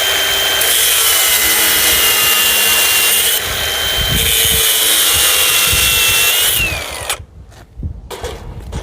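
Electric power tool running steadily under load for about seven seconds, then winding down with a falling whine, followed by a few light knocks.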